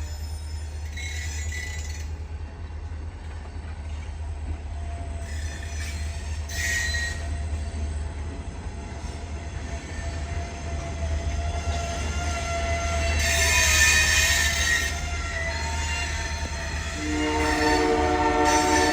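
Diesel freight train passing, with a steady low engine rumble and several short high-pitched wheel squeals, the longest a little past the middle. The locomotive's multi-chime horn starts sounding again near the end.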